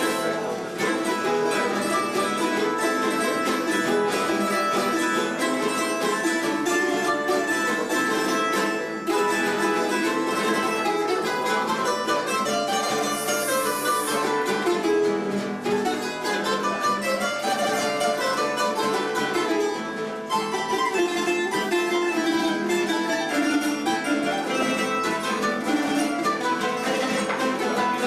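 A plucked-string trio of bandurria, laúd and guitar playing the instrumental part of a 1930s Cádiz carnival tango. Bright picked and tremolo melody runs over strummed guitar chords.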